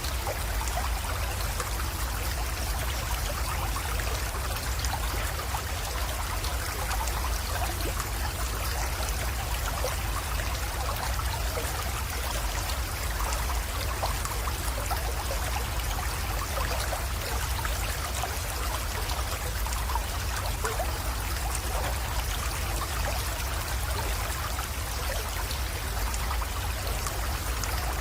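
Small mountain creek flowing and trickling steadily into a pond, with scattered small splashes and a steady low rumble beneath.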